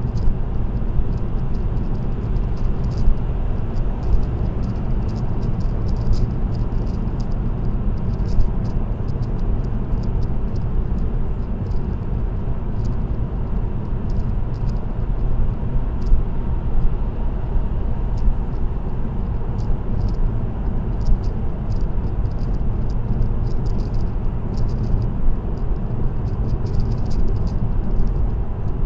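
Steady road and tyre noise of a car cruising on an expressway, heard from inside the cabin as an even low rumble. Faint short ticks are scattered throughout.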